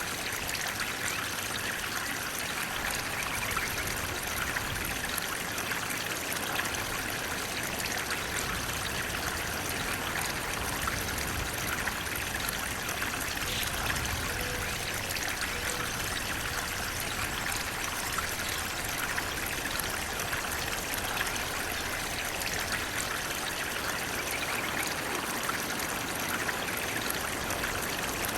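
Running water flowing steadily, an even rushing sound with no breaks or changes.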